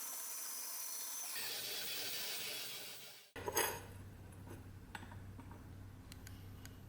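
Steady scratchy rubbing of an abrasive on the rusty steel blade of an old pchak knife. It cuts off abruptly about three seconds in, and a low hum with a few light clicks follows.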